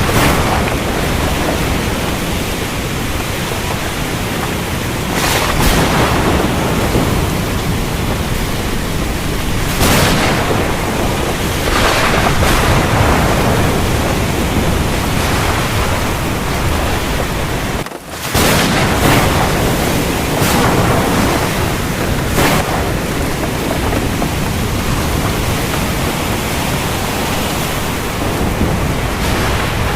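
Heavy rain falling steadily in a thunderstorm, with low thunder rumbling underneath and louder surges every few seconds. The sound drops out very briefly a little past the middle, then resumes.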